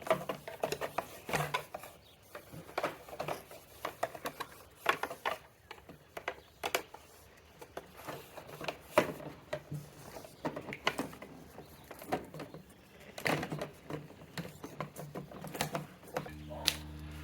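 Irregular clicks and knocks of hand tools and scooter parts being handled while a mirror and its mount are put back in place. A steady low hum starts near the end.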